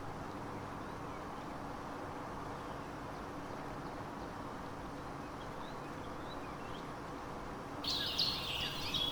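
Steady, even background noise with a faint hum. Near the end, rapid high-pitched bird chirping cuts in suddenly and becomes the loudest sound.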